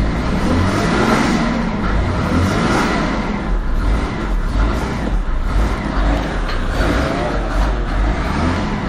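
Mercedes OM603 straight-six diesel engine running after a cold start, with air in its fuel system; the revs rise and fall twice.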